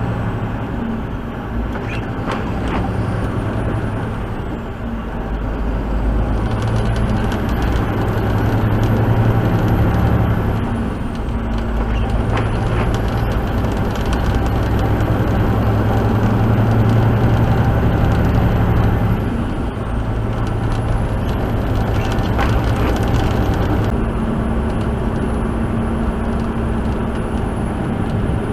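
Tractor-trailer's diesel engine running under load from the cab, its pitch stepping up and down several times as it works through the gears. A faint high whine rises and falls with it.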